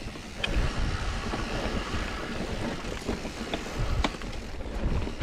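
Wind rumbling on the microphone of a camera riding along on a mountain bike, with the tyres rolling over a dirt trail and scattered clicks and rattles from the bike.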